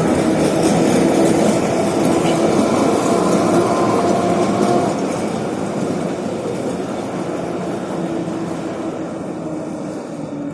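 Tram running on its rails close by, a loud rumble that fades gradually over the second half.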